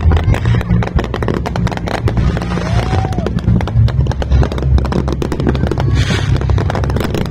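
Fireworks display: rapid crackling and popping bursts one after another over a deep low rumble of booms, with a short whistling glide about three seconds in.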